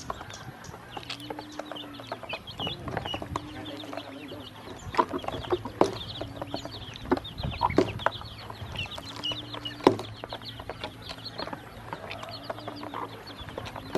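A group of ducklings peeping: many rapid, high chirps overlapping throughout, with occasional sharp taps.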